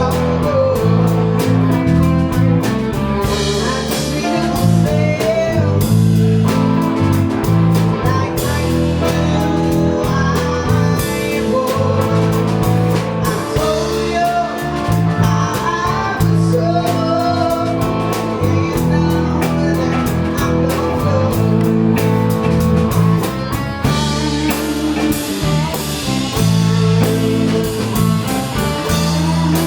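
Band playing a blues number: a singer over guitar, bass and drum kit.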